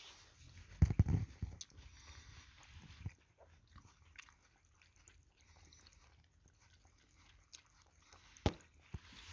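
Cat lapping water with wet, irregular mouth ticks. A cluster of loud low thumps comes about a second in and a single sharp knock comes near the end.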